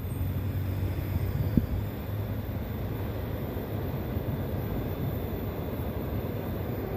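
Diesel-electric locomotive (KAI CC 206) and its passenger coaches giving a steady low rumble as the train comes onto the steel bridge, with a brief sharp sound about a second and a half in.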